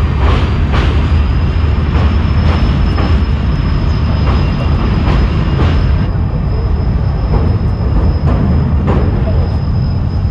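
Passenger train running at speed, heard at an open coach door as it crosses a steel truss bridge: a heavy steady rumble with repeated wheel clacks about twice a second. From about two seconds in, a thin steady high-pitched whine sits over the rumble.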